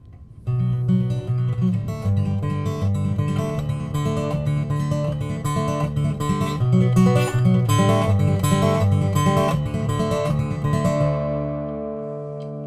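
Acoustic guitar playing a song's intro, strummed and picked chords starting about half a second in. A last chord is left ringing and slowly fading near the end.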